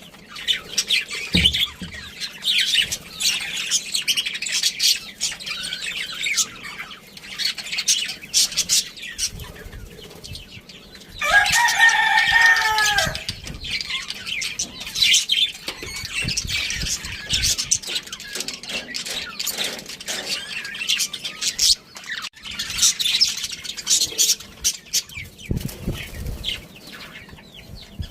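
Budgerigars chirping and chattering in rapid high, short notes, with one louder, lower-pitched call lasting about two seconds near the middle.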